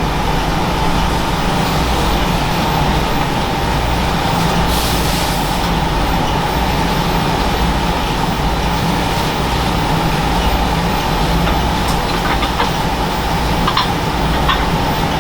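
A steady mechanical drone with a low hum. There is a brief hiss about five seconds in and a few light clicks near the end.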